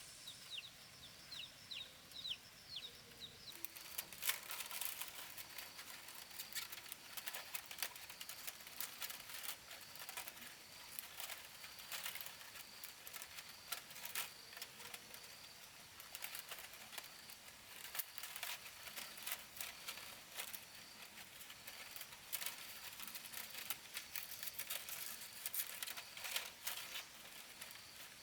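For the first three seconds or so, a bird gives a quick series of short falling whistles. After that comes a dense, irregular run of light clicks and rustles.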